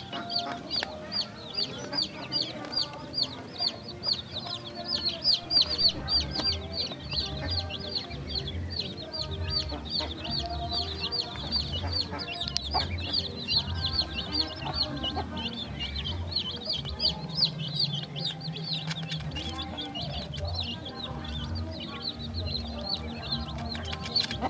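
Ducklings and chicks peeping nonstop while they feed: a steady stream of short, high, falling peeps, several a second.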